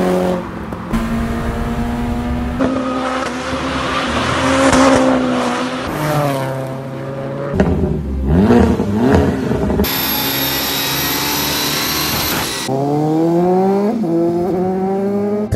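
Modified cars' engines and exhausts revving and accelerating in a string of short clips, cut abruptly one into the next. The pitch climbs in several sweeps, and a high whine over a hiss runs for a couple of seconds in the second half.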